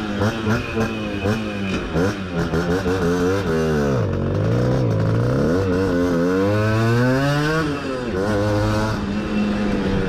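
60 cc two-stroke moped engine revving up and down while riding: quick rises and falls in revs for the first few seconds, then a drop, a long steady climb for about three seconds, and a sudden fall in revs before it settles.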